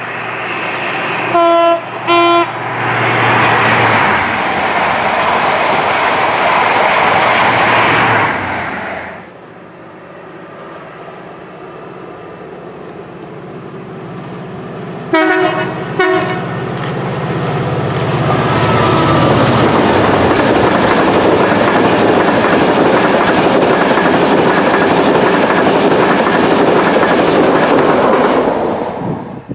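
Two trains passing at speed, each sounding two short blasts on its horn. The first sounds its horn about a second and a half in and rushes past for several seconds; after a quieter lull, the second sounds its horn about halfway through and passes for about twelve seconds, stopping sharply near the end.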